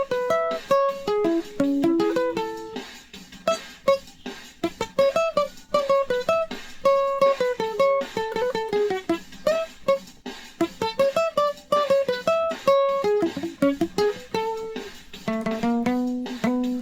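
Instrumental guitar music: a melody picked note by note in quick succession, with a lower held note coming in near the end.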